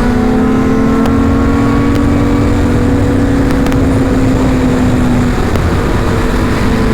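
Sport motorcycle engine running at steady revs while riding, its pitch creeping slightly upward, under heavy low wind rumble on the rider's microphone.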